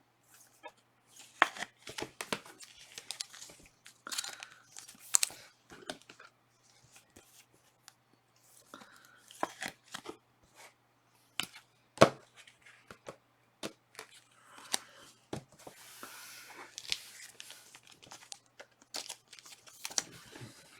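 Trading card packs being torn open by hand, their wrappers ripping and crinkling in irregular short bursts, with a sharper snap about twelve seconds in.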